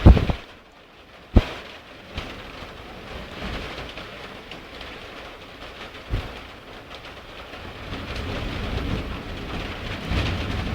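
Heavy rain falling steadily during a thunderstorm, with a low rumble of thunder building toward the end. Two sharp, loud cracks stand out, one at the very start and another about a second and a half in.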